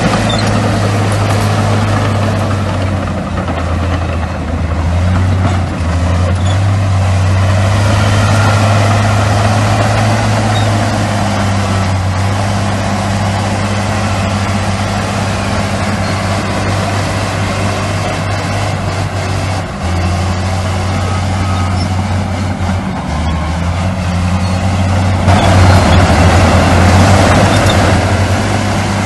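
Heavy diesel earthmoving machinery running steadily with a deep engine drone. It grows louder and noisier for a few seconds near the end.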